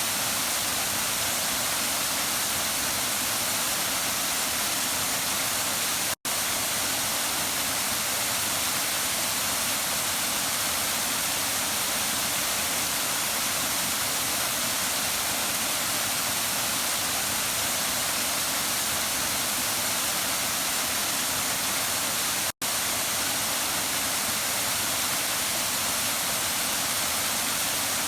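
Waterfall rushing steadily: an even hiss of falling water, brightest in the upper range, that cuts out for a split second twice.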